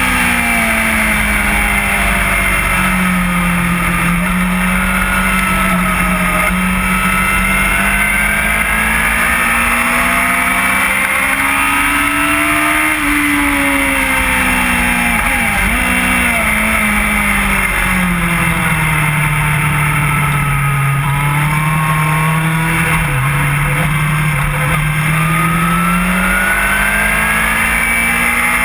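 Inline-four sport bike engine at high revs, heard from on board with heavy wind rush. The revs sink for long stretches and climb again several times, with brief dips at gear changes.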